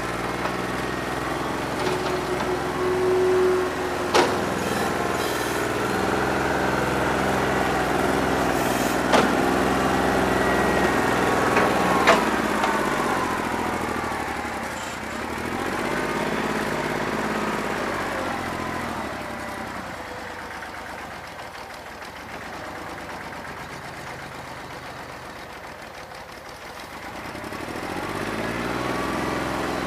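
New Holland 1320 compact tractor's three-cylinder diesel engine running, its speed rising and falling, with a few sharp knocks along the way and a quieter stretch past the middle. It runs rough on a bad injector, not firing cleanly on all cylinders.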